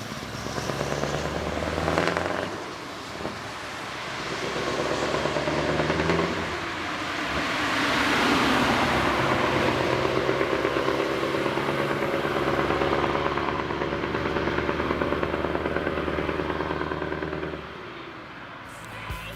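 Scania R 560's V8 diesel truck engine running under load, the sound swelling to its loudest about eight seconds in and holding steady, then falling away near the end.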